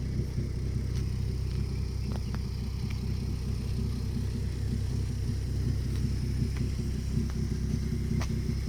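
Audi A3 3.2 quattro's VR6 engine idling steadily through a Mk5 Golf R32 exhaust, a low, even rumble with no revving, and a few faint ticks.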